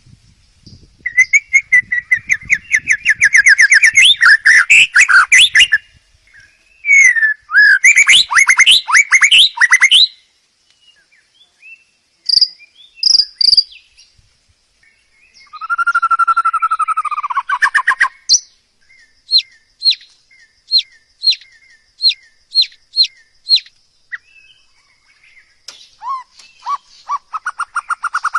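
A songbird singing loud, varied phrases: fast rattling trills, short whistled notes, and a run of about a dozen sharp separate notes at roughly two a second, with short pauses between phrases.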